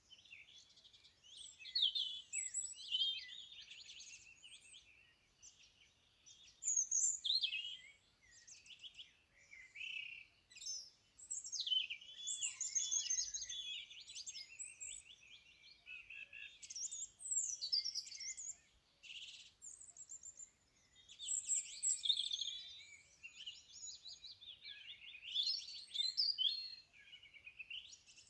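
Several songbirds singing together, overlapping high trills, warbles and chirps that come in bursts of a few seconds with short pauses between.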